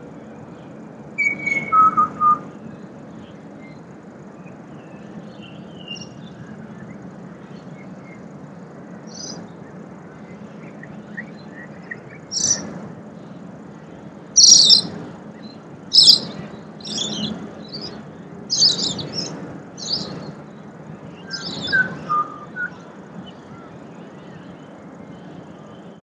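Pied butcherbird singing: a couple of clear whistled notes stepping down in pitch about a second in. After a lull comes a run of short, high, sharp chirps through the second half, over a steady low hum.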